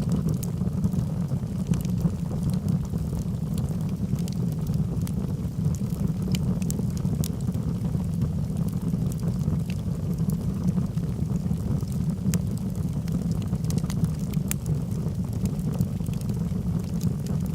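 Logs burning in a fireplace: a steady low rumble of flame with frequent scattered crackles and pops.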